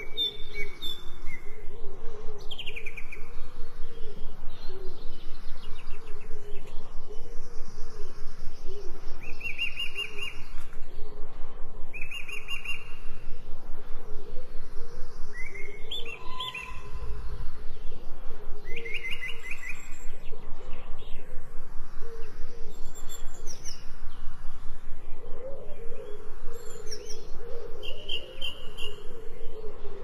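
Wild birds chirping and trilling in short high calls every second or two, over a steady, louder low background sound with a fast flutter.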